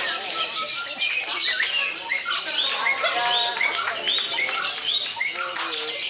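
Many lovebirds chirping and chattering at once, with a steady run of short, high, hooked chirps about two a second over a dense bed of bird chatter.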